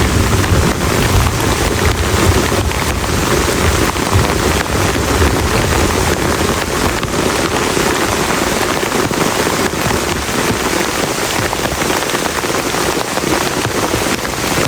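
Heavy rain falling steadily on a plastic tarp, with a low rumble of thunder that dies away over the first half.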